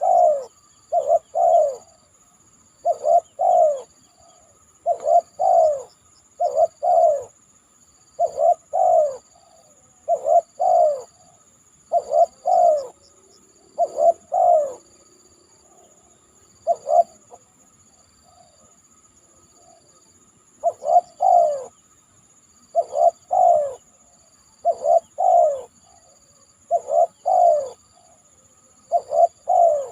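Spotted dove cooing: short pairs of low, slightly falling coos repeated about every two seconds, with a pause of a few seconds past the middle.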